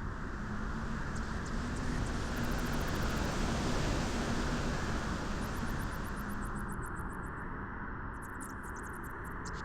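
Steady beach wind rushing, swelling in a stronger gust in the middle and easing off again. Faint trains of rapid, very high ticking come and go above it.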